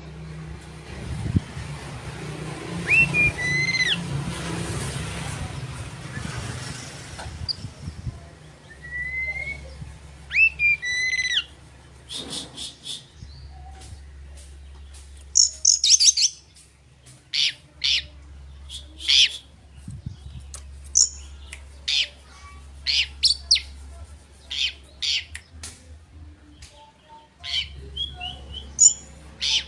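Oriental magpie-robin (kacer) singing: a varied run of whistled notes that rise and fall, mixed with quick sharp chirps in short bursts with brief pauses between them.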